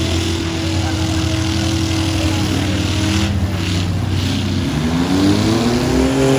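Demolition-derby trucks' engines running loud and steady, with one revving up, rising in pitch, about five seconds in.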